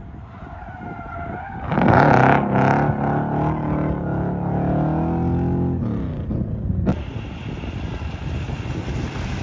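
Bentley drift car's engine revving hard about two seconds in and held high through a drift, then easing off. A steady hiss of tyres or wind follows near the end.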